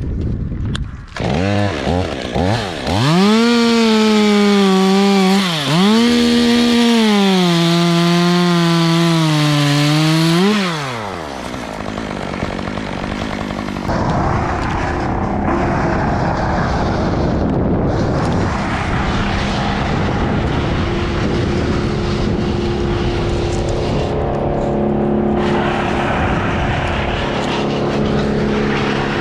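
Gasoline chainsaw revved in a few short blips, then held at full throttle for several seconds with two brief dips in pitch as it cuts wood. About ten seconds in the throttle is let off and the pitch falls, and a steadier, lower engine noise carries on.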